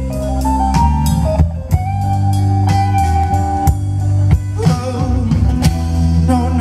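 Live band playing an instrumental passage: a guitar melody of held notes over bass and drums.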